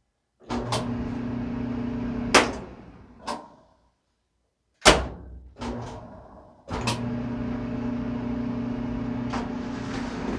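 Clothes dryer test-running after its frayed drive belt was trimmed: the motor and drum run with a steady hum. About two seconds in, a sharp click comes and the hum winds down. Sharp clicks and knocks follow, then the dryer starts again and runs steadily.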